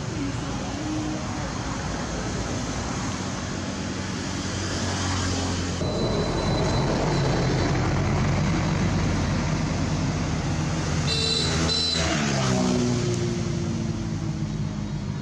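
A motor vehicle's engine running close by, getting louder about six seconds in and dropping in pitch as it goes past, with a brief high-pitched sound just before.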